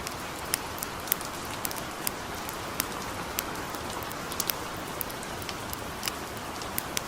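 Steady light rain, with irregular sharp crackles and pops of a wood campfire scattered through it.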